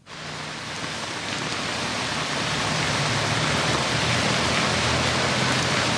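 Heavy monsoon rain pouring down in a steady hiss, growing louder over the first couple of seconds.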